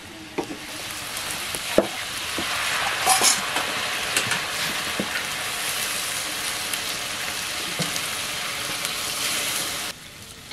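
Buff meat and chayote leaves frying in a wok: a loud, steady sizzle with a few ladle knocks against the pan in the first few seconds, as water is poured into the hot wok. The sizzle drops off suddenly near the end.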